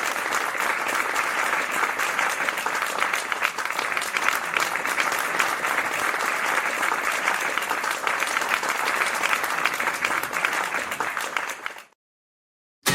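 Audience applauding, a dense, even clatter of clapping that fades out just before the end.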